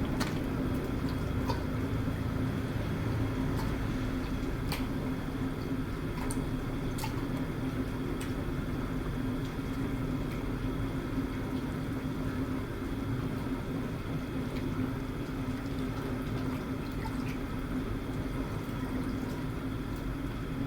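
Water and masala boiling in a large biryani pot: steady bubbling with a low hum, and a few faint clicks scattered through.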